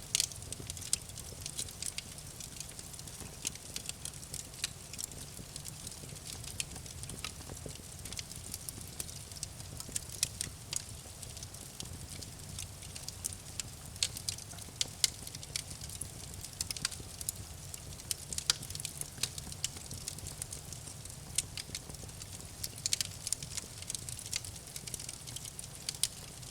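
Campfire crackling: frequent sharp pops and snaps at irregular intervals over a steady low rumble of the burning fire.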